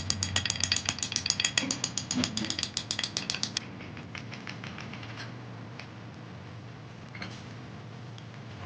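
A fast, even run of sharp metallic clicks, about ten a second, stopping about three and a half seconds in, followed by a few scattered clicks and taps.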